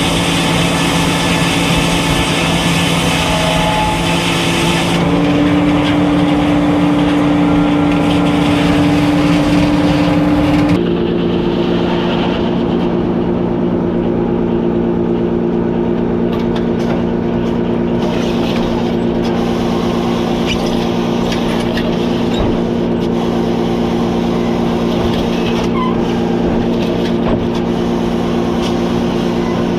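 Circular sawmill machinery running with a loud, steady hum of several fixed tones. The pitch shifts about five seconds in and again about eleven seconds in, and the high hiss drops away after the second change.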